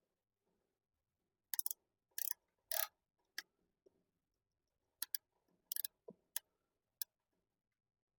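Sharp metal clicks at irregular intervals, some single and some in quick clusters of two or three, as a wrench works a 10 mm bolt on a motorcycle lift's release lever.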